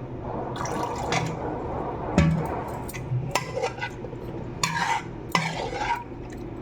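Chicken being mixed into a wet yogurt-and-spice marinade in a bowl, with irregular squelching swishes and light clinks. There is one sharp knock against the bowl about two seconds in.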